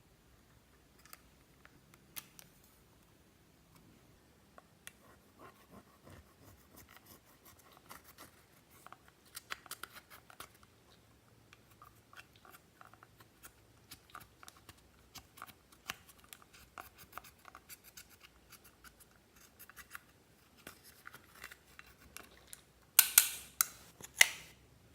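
Clear slime being mixed, giving soft sticky clicks and crackles, with a few louder crackling pops near the end.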